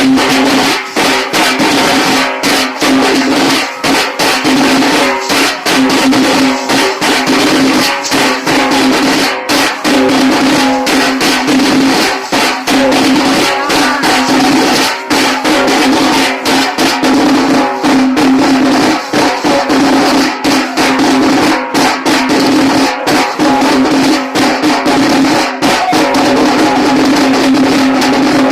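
Tasa drums beaten with sticks in a loud, fast, unbroken rhythm, over a steady held tone.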